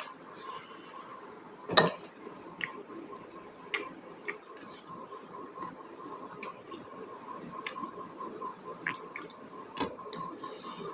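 Close-up mukbang eating sounds: a person chewing buffalo innards curry, with irregular wet mouth clicks and smacks, one louder click about two seconds in.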